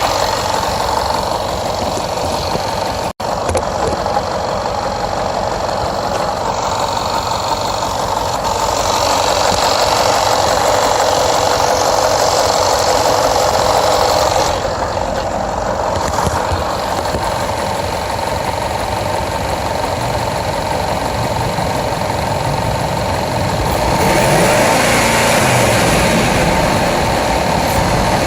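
Jaguar XFR's supercharged 5.0-litre AJ133 V8 running while misfiring on cylinders 5 to 8, one whole bank, with fault codes that also flag the fuel pressure regulator. The sound cuts out for an instant about three seconds in and grows louder near the end.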